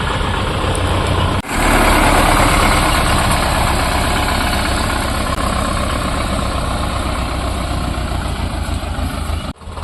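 Sonalika DI 750 tractor's diesel engine running steadily. The sound drops out briefly about a second and a half in, then comes back louder.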